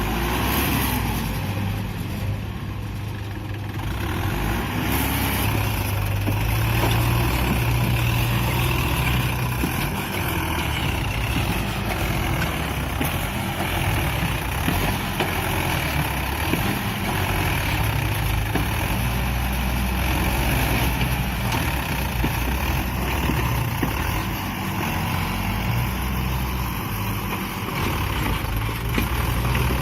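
A Mahindra 585 DI tractor's diesel engine running hard under load, its pitch rising and falling, getting louder about four seconds in.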